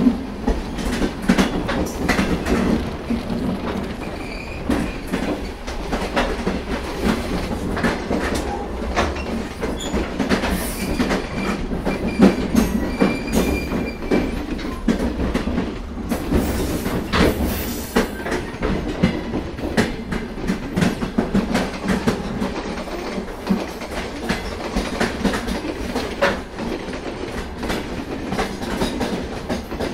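Indian Railways passenger train running at speed, heard from an open coach door: a steady rumble of wheels on the rails with frequent clicks and clacks as the wheels pass over joints.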